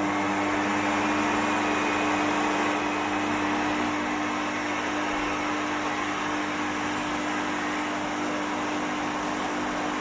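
Pet hair dryer blowing steadily: a rush of air over a steady motor hum.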